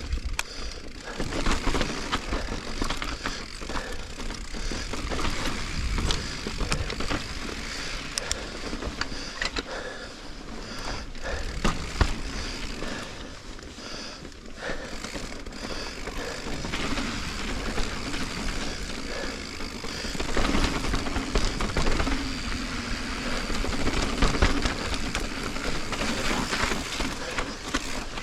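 Giant Reign mountain bike ridden over rock and sand: rolling tyre noise that rises and falls with the terrain, with frequent sharp knocks and rattles from the bike.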